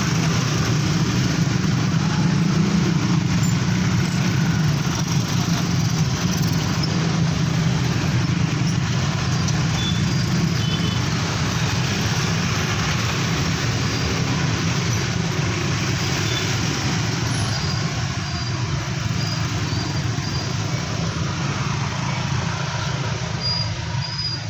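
Steady vehicle noise: a low engine hum over a wash of traffic, with a few faint high chirps in the second half.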